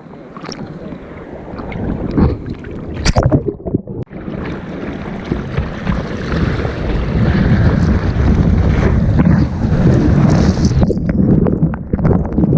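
Water rushing and splashing over a bodyboard-mounted action camera, with wind buffeting the microphone. A few sharp splashes come around three seconds in, then a loud steady rush of water from about five seconds on.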